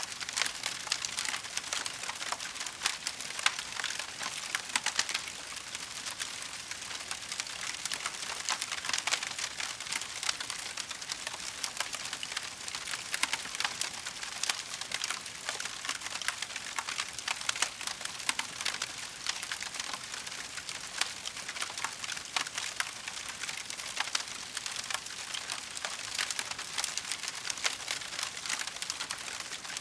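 Wood fire crackling in a fireplace: a dense, continuous stream of small snaps and pops with occasional louder cracks.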